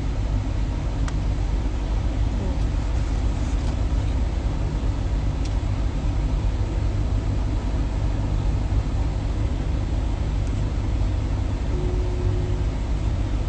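Steady low rumble of an idling truck engine, with a few faint ticks over it.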